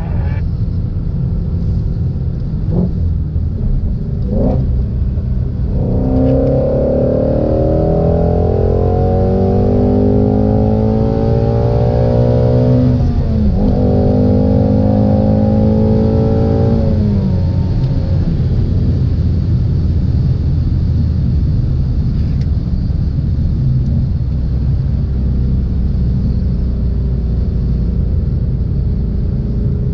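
2016 Ford Shelby GT350's 5.2-litre flat-plane-crank V8 under hard acceleration: two short blips of revs, then a rising pull about six seconds in, a quick shift about thirteen seconds in and a second rising pull. The engine note drops off about seventeen seconds in and settles to a steady low rumble while cruising.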